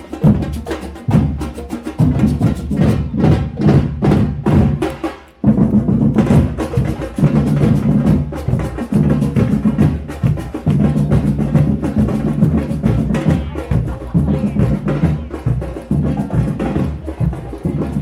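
Percussion music: drums and wood-block strikes playing a fast rhythm over a steady low pitched part. It breaks off briefly about five seconds in and starts again.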